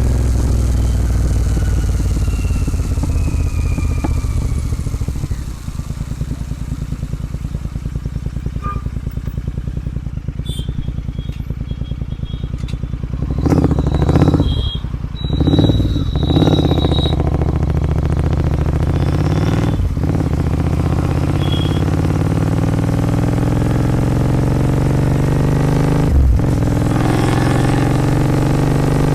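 Royal Enfield Continental GT 650's parallel-twin engine through Red Rooster aftermarket exhausts while riding. The engine note falls as the bike slows early on, surges with a few louder throttle bursts about halfway through, then rises steadily as it accelerates in the last third.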